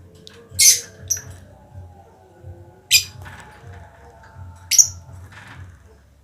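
Small cage birds in a mixed aviary of lovebirds, sunbird and sparrows give short, shrill chirps: three loud ones spaced about two seconds apart, with fainter chirps between. A low hum runs underneath.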